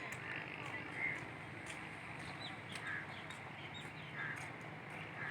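Birds calling with short, scattered chirps over a faint steady low hum.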